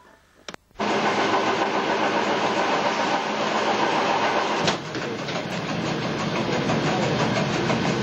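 Ferrovie del Sud Est diesel railcar train running along the line, a steady rumble and rattle of the train under way that cuts in suddenly about a second in, with a brief click around the middle.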